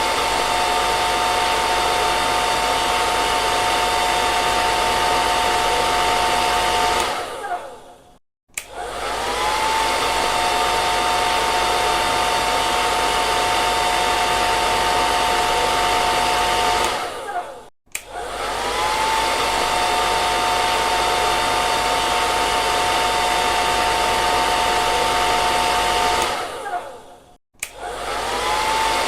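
Hair dryer blowing with a steady rushing hiss and a motor whine. Three times it winds down with a falling whine, goes silent for a moment, and spins back up with a rising whine, roughly every nine seconds.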